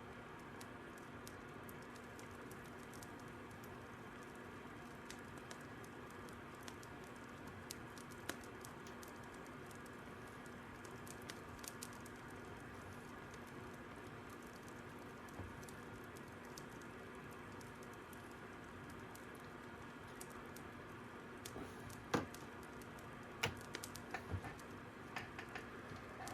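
Fire crackling: a faint steady hiss with scattered sharp pops, which come more often and louder in a cluster near the end.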